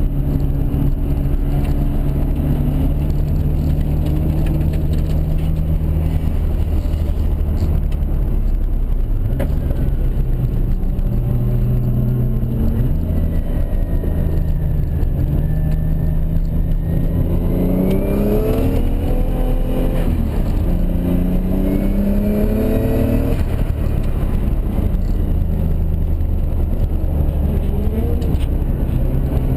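Toyota Mark II's turbocharged 1JZ straight-six, heard from inside the cabin while driven hard on track. The revs hold, then rise and drop again and again, with a run of quick climbs between about 17 and 23 seconds in.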